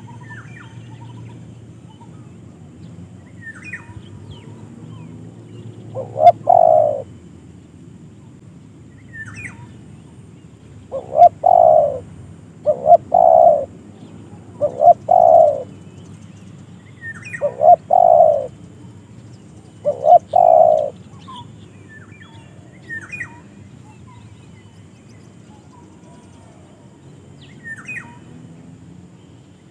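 A dove cooing: a run of low coos, each about a second long, several coming in quick pairs a couple of seconds apart. Faint high chirps of small birds come in between.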